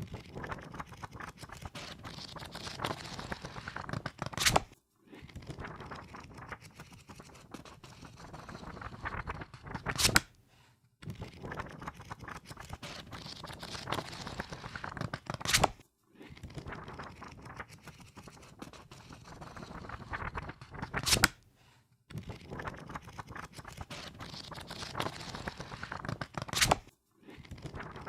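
Pages of a paper book riffled through rapidly under the thumb, a fluttering rustle that builds and ends each run in a sharp slap. Five runs, about five and a half seconds apart, with a brief silence after each.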